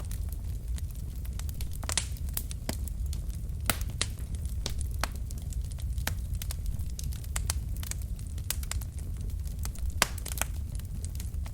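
Logs burning in a fireplace: irregular sharp crackles and pops over a steady low rumble of the flames, with a few louder pops, the strongest about ten seconds in.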